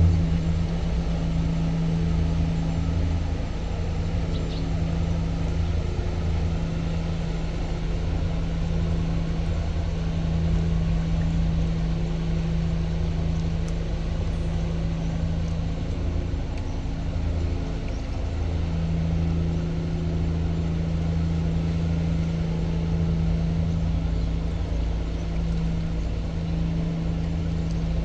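A tugboat's diesel engine running steadily with a constant low drone and a steady hum.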